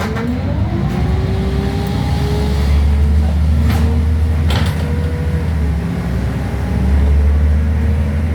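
Scania N94UD Omnidekka double-decker bus heard from inside the saloon, its five-cylinder diesel and driveline running with a steady low rumble as it travels. A whine dips and then climbs over the first second as the bus picks up speed, with a couple of brief knocks or rattles around the middle.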